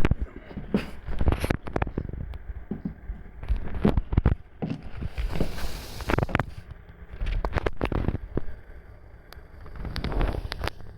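Footsteps of chunky lug-soled slide sandals, DKNY Cai mules, walking: irregular clunks and scuffs of the soles, with a short scraping hiss about midway.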